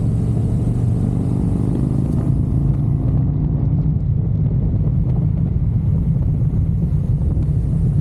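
Motorcycle engine running at a steady speed while riding, a loud, even low rumble mixed with wind rush.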